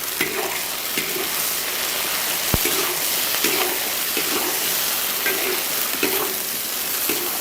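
Cauliflower stir-frying in hot oil with cured pork, sizzling steadily, with a spatula stirring and scraping the pan in repeated strokes. There is one sharp click about halfway through.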